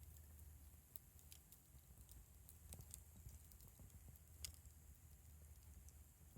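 Wood fire crackling faintly: sparse, irregular pops and clicks, the sharpest about four and a half seconds in, over a low steady rumble.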